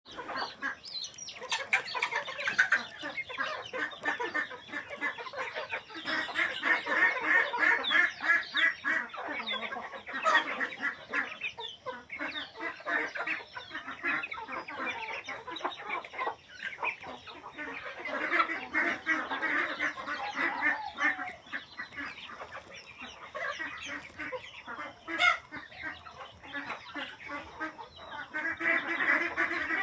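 A flock of domestic poultry calling, many short clucking and quacking calls overlapping without a break. It swells loudest around 6–8 s, 18–20 s and near the end.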